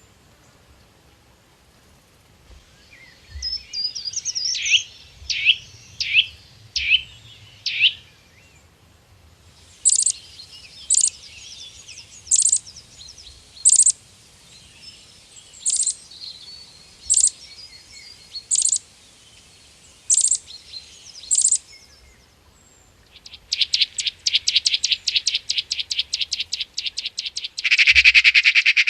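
Small birds singing: first a run of sweeping, falling notes, then single sharp chirps about every second and a half, then a fast rattling trill that ends in a loud burst of song.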